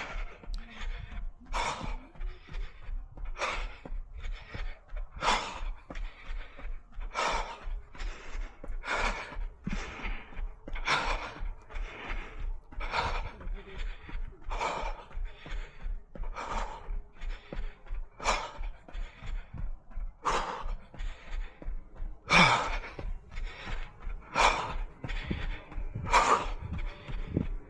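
A runner breathing hard in a steady rhythm, a puff of breath about every second, with a stronger exhale about every two seconds.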